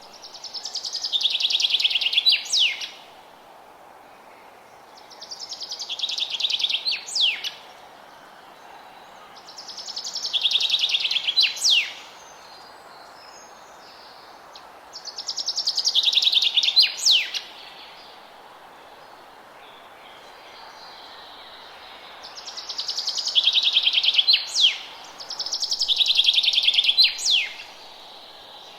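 A songbird singing the same song over and over, six times, one every four to five seconds. Each song is a rapid trill of about two seconds that swells in loudness, drops in pitch partway through and ends in a couple of sharp, quick notes, over a faint steady background hiss.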